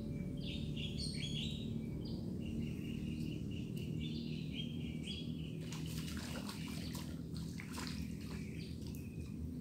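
Birds chirping in short calls, with scattered sharp clicks and rustles in the second half.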